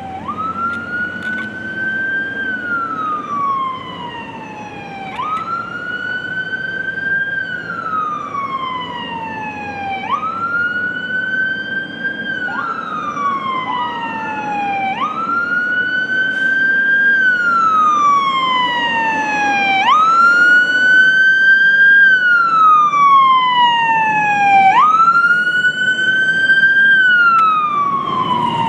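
Fire apparatus siren wailing in a repeating cycle about every five seconds, each time climbing quickly, holding, then sliding slowly down in pitch. Heavy truck engine rumble runs underneath, and it all grows louder as the apparatus approaches.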